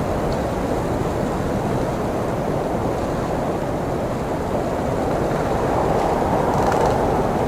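Blizzard wind blowing steadily as a deep rushing noise, swelling a little about six seconds in.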